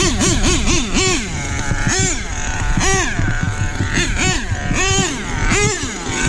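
HPI Savage 25 nitro monster truck's two-stroke Nitro Star .25 glow engine revving up and down over and over. It starts with quick throttle blips, several a second, then settles into longer revs about once a second.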